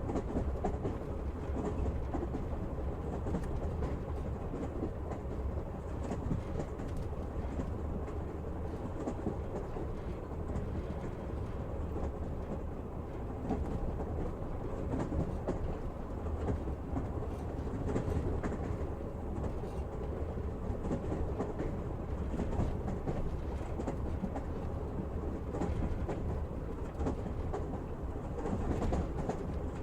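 Train running steadily: a continuous low rumble of the railway carriage with the knocking of wheels over the rail joints.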